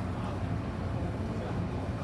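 MTR M-Train electric metro train running, heard on board: a steady low rumble of wheels and running gear on the track.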